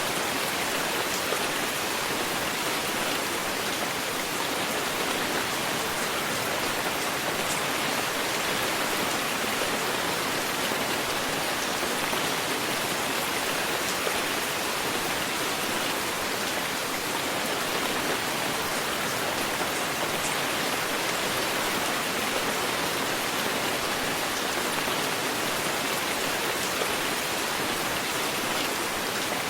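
Steady heavy rain falling, an even hiss with the scattered patter of individual drops, without thunder.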